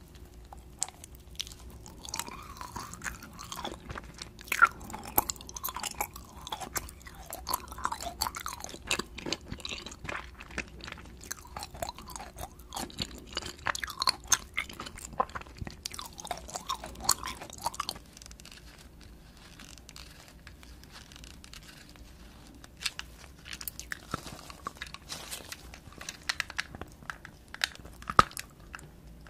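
Close-miked chewing and biting of a sugar-coated gummy jelly lollipop, with soft crunching of the sugar coating and a quieter lull about two-thirds of the way through. Near the end come sharp, loud snaps as a thick white chocolate disc is bitten.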